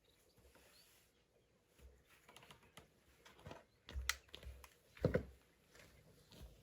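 Scattered light taps and clatters, with two louder knocks about four and five seconds in.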